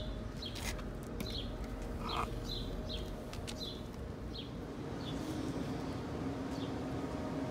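Small birds chirping, short high chirps about one or two a second, over a steady low outdoor rumble.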